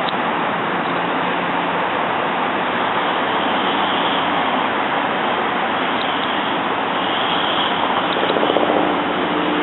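Passenger train passing close by: a steady rushing noise of wheels on the rails, with faint steady tones coming in near the end.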